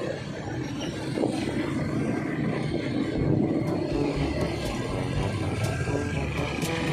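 Motorcycle riding through city traffic: steady engine and road noise with wind buffeting the microphone, heaviest in the middle of the stretch.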